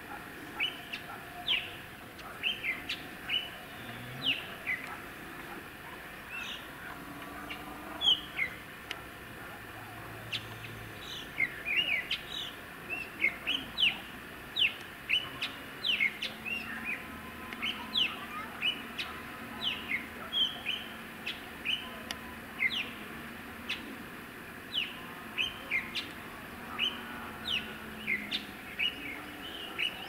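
Small birds chirping: a steady string of short, sharp calls that each drop in pitch, coming more often about a third of the way in.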